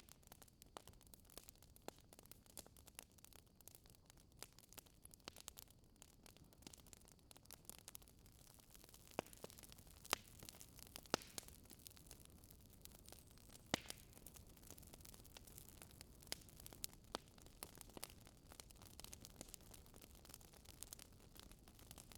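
Faint crackling of a wood fire in a fireplace: irregular soft pops and snaps over a low hiss.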